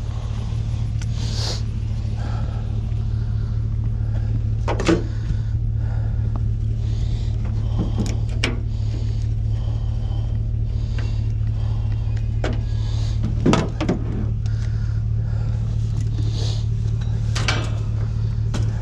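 Vehicle engine idling with a steady low hum, and a few short knocks and scrapes over it. The loudest knocks come about five seconds in and again past halfway.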